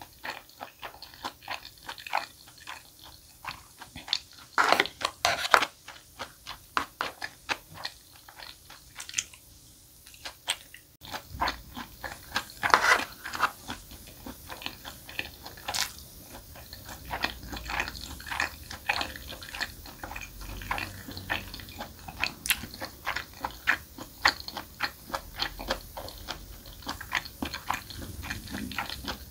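Close-miked chewing and wet smacking mouth sounds of someone eating chewy braised pig's trotters (jokbal) and jjolmyeon noodles, with a few louder bites.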